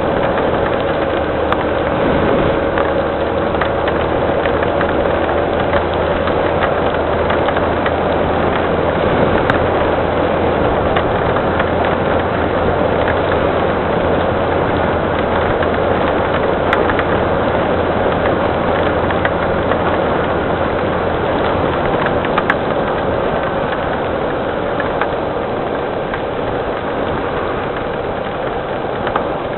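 Steady rain falling, an even hiss, with an engine idling beneath it as a low steady hum that stops about two-thirds of the way through.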